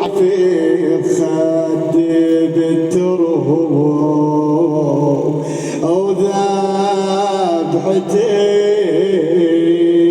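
A man chanting a slow Shia mourning lament (nai), drawing out long wavering notes without clear words.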